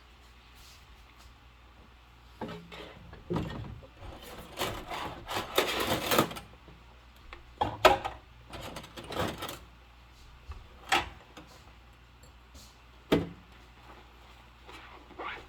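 Dishes being washed by hand with rubber gloves: irregular scrubbing strokes, densest a few seconds in, and single sharp knocks of dishes set down or bumped against each other, three times in the second half.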